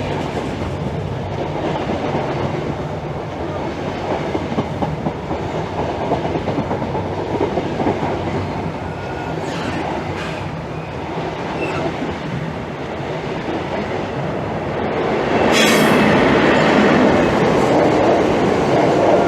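Electric train running through the station, with wheels clicking over the rail joints and track noise. It grows louder about three quarters of the way through.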